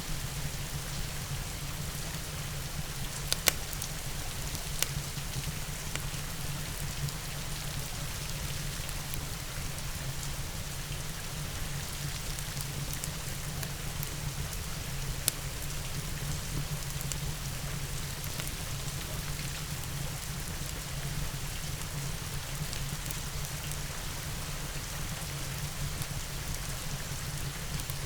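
Steady rain mixed with a crackling log fire. A few sharp pops stand out over the rain, the loudest about three seconds in and another near fifteen seconds.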